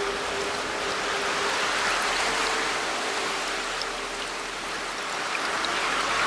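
Running water, a steady rushing that swells slightly about two seconds in and again near the end.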